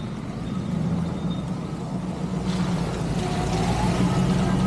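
Motor vehicle running, a steady low hum that grows louder over the last couple of seconds.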